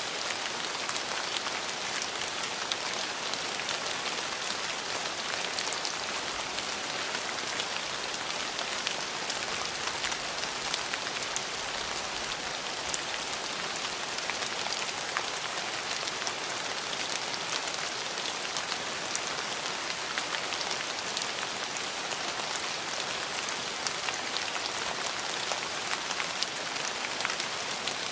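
Steady rain falling on hard surfaces, an even hiss with many small scattered drop ticks.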